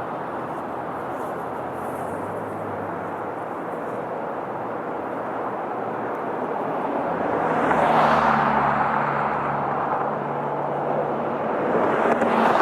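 Outdoor traffic noise, with a motor vehicle passing loudly about eight seconds in and another swelling up near the end.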